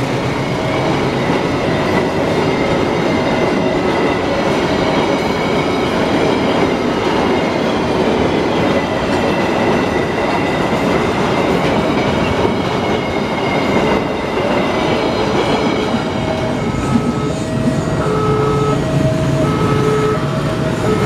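A freight train of fuel tank wagons rolling through a level crossing, with a steady rumble and clatter of wheels on rails. In the last few seconds the crossing's warning signal beeps steadily, alternating between two pitches.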